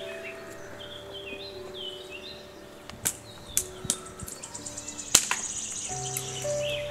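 Hatchet chopping kindling on a wooden block: three sharp chops, the loudest about five seconds in, over soft background music.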